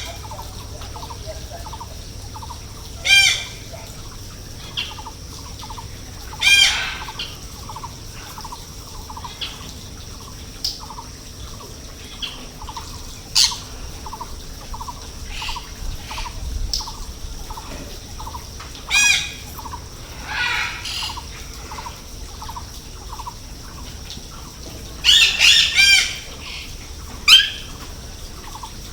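Birds calling: loud, short squawks every few seconds, with a quick run of three calls near the end. Under them runs a faint, steady, evenly repeating chirp.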